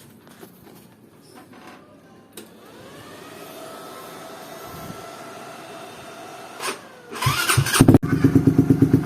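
Motorcycle fitted with a round aftermarket racing silencer being started: a faint electric whine, then the starter cranks briefly near the end and the engine catches and idles with a loud, evenly pulsing exhaust note.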